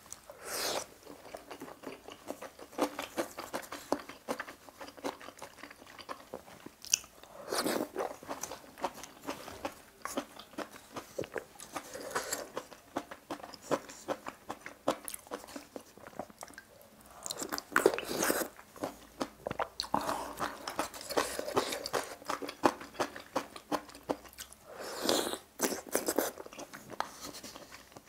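A person chewing and biting mouthfuls of rice and budae-jjigae stew close to the microphone: a steady run of small wet mouth clicks, with louder bursts of chewing several times.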